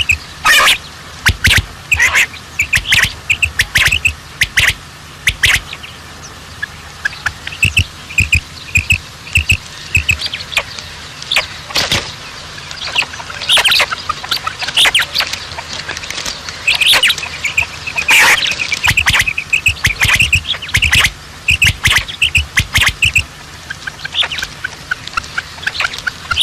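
Birds calling: runs of short chirps mixed with many short, sharp, louder calls in quick succession.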